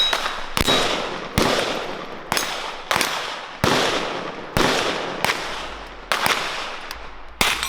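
Gunshots from the firing line, about ten in a row at an uneven pace of roughly one a second. Each is a sharp crack followed by a long echoing tail.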